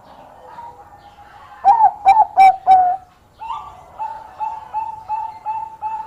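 Zebra dove (perkutut) cooing: a burst of four loud, clipped coos about a second and a half in, then a run of short, evenly repeated coos, about three a second.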